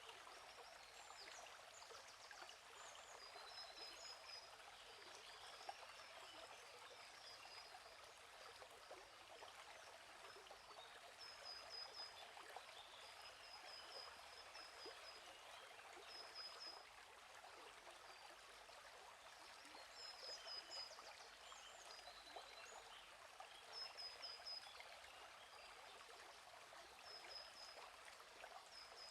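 Faint, steady rush of a gently flowing stream, with small birds giving short high chirps in little clusters every few seconds.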